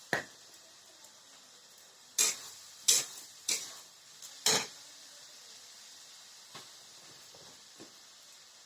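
A utensil knocking against a cooking pan about five times in the first half, with a couple of fainter taps later, over a faint steady sizzle of spices frying in oil.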